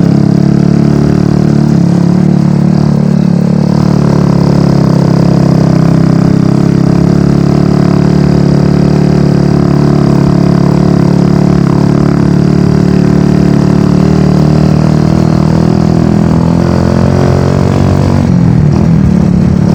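Motorcycle engine running steadily while riding, its engine speed shifting up and down briefly near the end.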